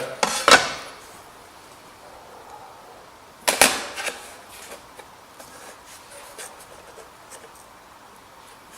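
A scriber drawn along a rule across sheet metal while marking out: two short scratching strokes, one about half a second in and a louder one about three seconds later. Faint taps of the tools follow.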